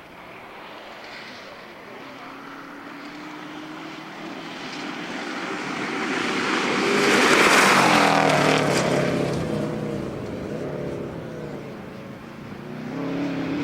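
A rally car approaches at speed and passes close by about halfway through, engine note with tyre noise swelling to a peak, then dropping in pitch and fading as it goes away. Another car's engine starts to come up near the end.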